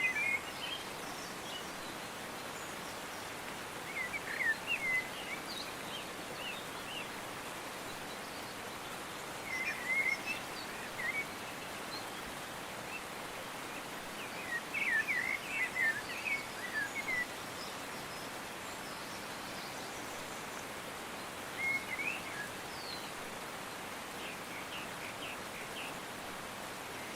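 Birds singing in short, high twittering phrases every few seconds over a steady background hiss.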